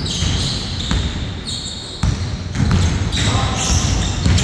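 Indoor basketball play: a ball bouncing on a hard court, several short high-pitched sneaker squeaks on the floor, and a sharp knock about two seconds in, with players' voices in a large, echoing hall.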